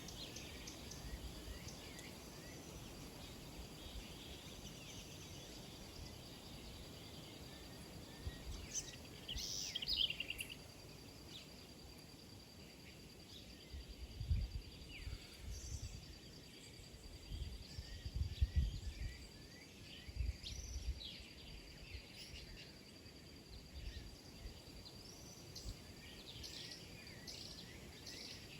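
Small birds chirping and calling, many short quick chirps and sweeping notes, busiest about a third of the way in and again near the end, over a steady high whine. Several low thuds come in the middle.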